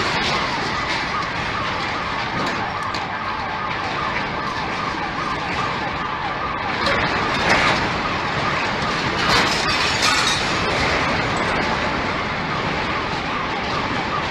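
An electronic alarm warbling in fast repeated sweeps over a loud, steady rushing noise, with a couple of louder knocks about seven and a half and ten seconds in.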